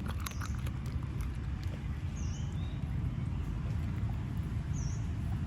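Steady low rumble of wind on the microphone, with a short high chirp, likely a bird, repeating about every two seconds and a few light clicks at the start.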